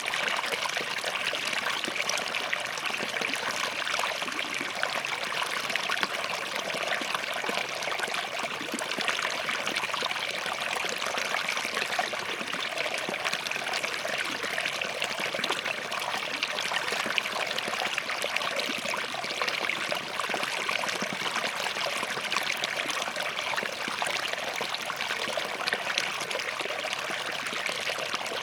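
Small forest stream flowing between rocks: a steady babble of running water, flecked with many small splashes and trickles.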